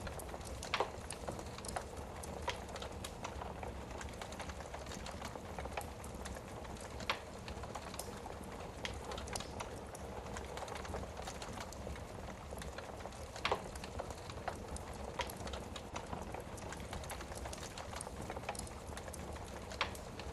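Wood fire burning in a fireplace: a steady low rush with scattered sharp crackles and pops, a few louder pops several seconds apart.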